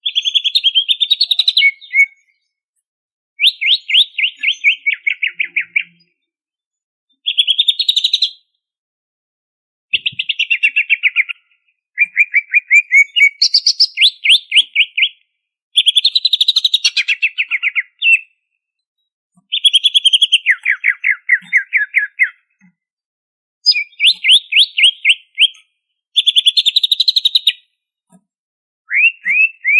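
Greater green leafbird (cucak ijo) singing loudly in rapid rattling phrases of quickly repeated notes, about a dozen phrases separated by short pauses, several sliding down in pitch.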